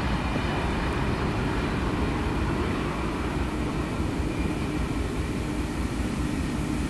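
Steady low rumble of a diesel-hauled passenger train running at track speed, pulled by a 421 class diesel-electric locomotive. A steady hum comes in about three seconds in.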